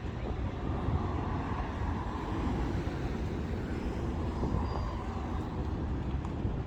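City street traffic: a steady low rumble of vehicles, with one passing by and swelling in the middle.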